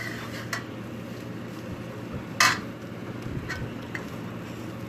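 A cooking utensil clinking and scraping against a frying pan a few times while stir-frying rice, the loudest clink about two and a half seconds in, over a steady low hum.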